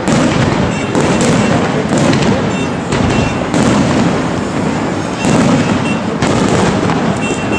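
Aerial fireworks shells bursting in close succession, with sharp bangs about once a second over a steady wash of noise.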